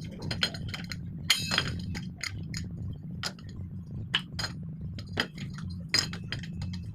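Repeated light clinks and taps of metal tools and fittings being handled during a gas geyser installation, irregularly spaced, over a steady low hum.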